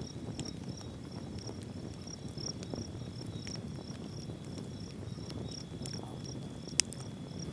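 Insects chirping in a steady rhythm of about three pulses a second, with a steady high insect whine and a low even rush underneath. One sharp click near the end.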